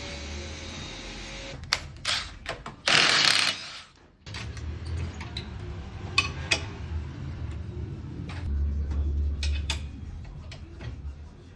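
Scattered clinks and knocks of tools on metal during work on a car's wheel hub to replace a worn wheel bearing, with a short loud burst of noise about three seconds in.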